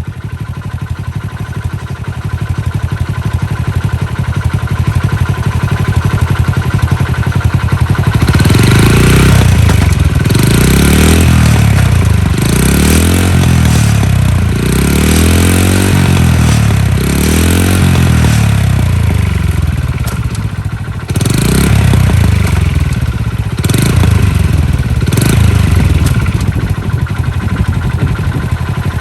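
Honda Little Cub's 50 cc single-cylinder four-stroke engine running and being revved: after a steady run it is taken up and let back down about four times, then given a few short, sharp blips near the end.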